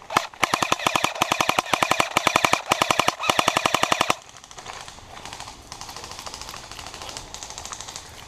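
Airsoft gun firing on full auto: a loud, rapid, even string of shots lasting about four seconds, then a fainter rapid string of shots from about a second later until near the end.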